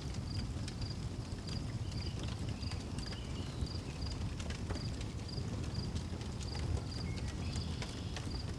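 Wood fire crackling, with scattered sharp pops over a low steady rumble, and crickets chirping in an even high rhythm, about one and a half chirps a second.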